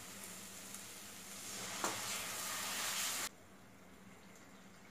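Onion-tomato masala sizzling in coconut oil in a kadai as it is stirred with a spatula, with a single knock of the spatula a little under two seconds in. The sizzle grows louder, then cuts off abruptly a little after three seconds in, leaving only a faint hiss.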